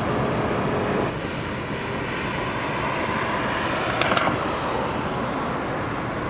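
Steady rumble of vehicle noise, with a brief click about four seconds in.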